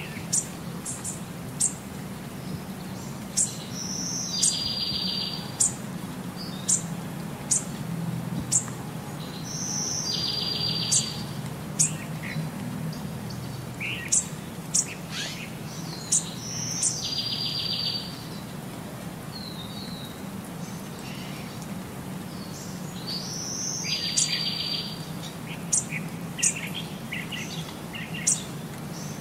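Bird calls: many short high chirps, and four times a buzzy, rapidly pulsed call about every six to seven seconds, over a steady low hum.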